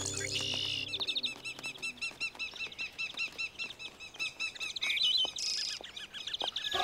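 Cartoon sound effect of a flock of small birds chirping, a dense run of short, quick, high chirps repeating many times a second.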